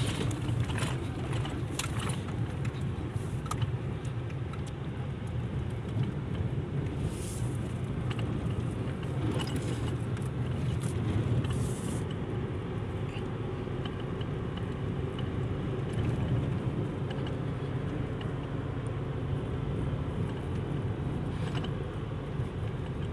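A 2023 Isuzu driving on a dirt road: steady engine and tyre rumble, with small rattles and clicks from the rough surface.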